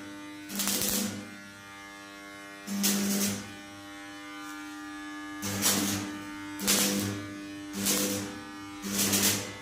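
An electric machine buzzing in short hissing bursts of about half a second each, six of them at uneven intervals, over background music with a steady drone.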